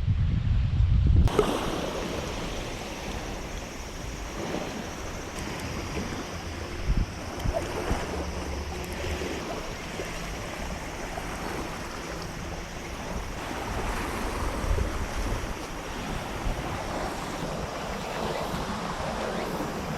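Sea waves washing and wind, with a low rumble of wind on the microphone for about the first second before it gives way to a steady wash of surf.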